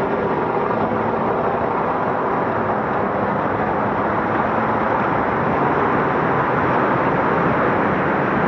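Scania Dakar rally truck driving at a steady pace, its engine and rolling noise loud and unbroken, with a faint hum of engine tones underneath.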